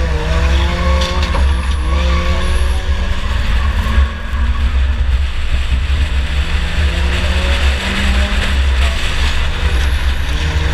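2004 Chevy Impala race car's engine running hard under load, its pitch climbing sharply at the start and then rising and falling with the throttle, over a constant heavy low rumble.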